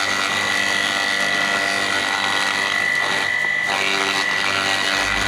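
Homemade wooden water-hyacinth chopper driven by a Sanyo water-pump electric motor, running steadily with a constant high whine over a lower hum.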